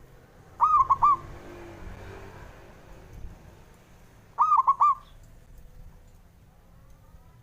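Zebra dove (perkutut) singing its cooing song: two short phrases, each a quick run of about four notes, about four seconds apart.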